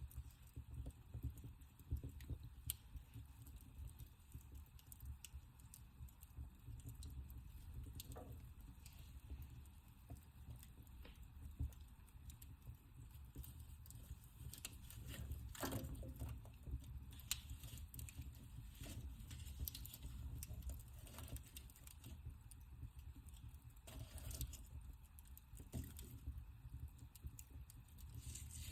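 Wood fire in a fireplace crackling: irregular small pops and snaps over a low steady rumble, with one louder snap about halfway through.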